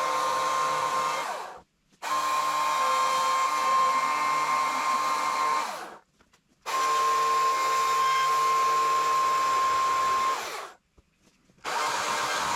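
EGO CS2005 20-inch battery chainsaw running in bursts, its electric motor and chain giving a steady whine. It stops abruptly and starts again three times.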